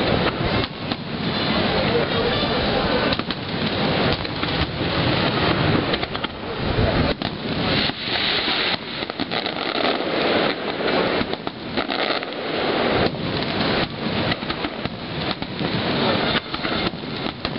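Aerial firework shells bursting in quick succession, a dense unbroken barrage of overlapping bangs.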